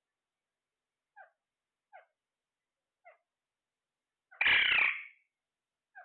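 A parrot giving short, soft chirps about once a second, then one loud squawk about four and a half seconds in.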